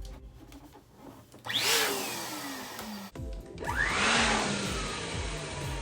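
Balloon air pump running in two bursts of a second or two each, blowing air into a balloon, over background music with a steady beat.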